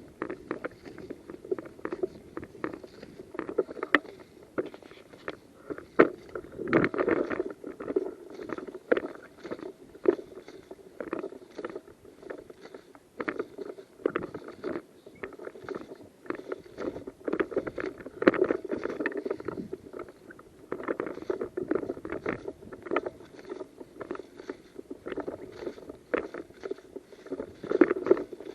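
Rustling of clothing and gear, with irregular knocks and clicks, as an airsoft player moves about.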